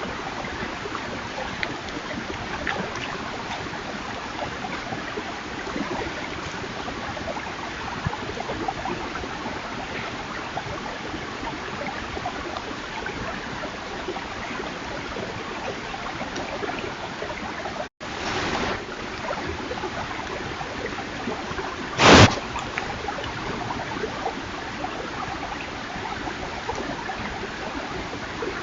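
Steady rushing hiss with faint crackles, typical of a trail camera's microphone outdoors. The sound cuts out for an instant about two-thirds of the way in, as at a join between camera clips. A short, loud burst of noise follows a few seconds later.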